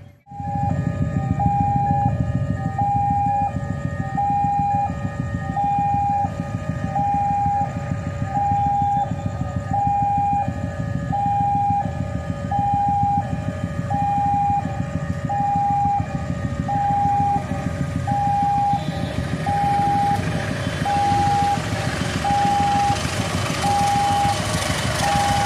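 Electronic level-crossing warning alarm sounding a steady two-tone signal, a higher and a lower tone alternating about once every 1.4 seconds, warning of an approaching train. A steady low rumble lies underneath, and a rising rushing noise builds over the last several seconds.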